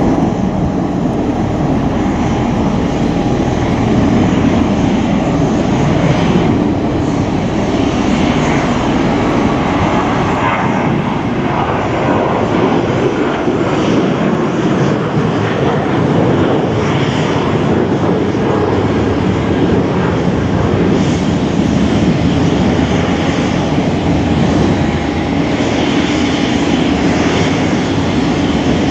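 V-22 Osprey tiltrotor running after engine start: a loud, steady, deep rumble from its turboshaft engines and proprotors, with a faint steady whine above it.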